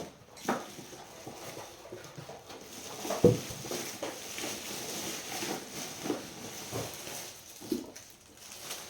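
Handling noises from unpacking a boxed humidifier: scattered light knocks and rustles, with one sharper knock about three seconds in.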